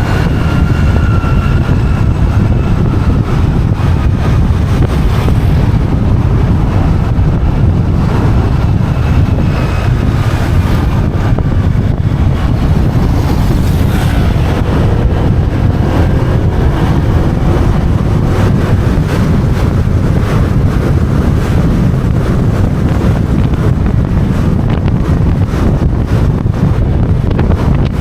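Wind buffeting the microphone over a motorbike's running engine and road noise on a ride: a loud, steady rumble. A faint whine falls in pitch over the first few seconds.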